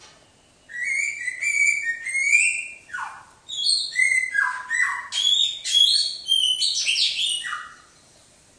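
A songbird singing one long phrase of varied clear whistled notes, several of them sliding down in pitch. It starts just under a second in and stops about a second before the end.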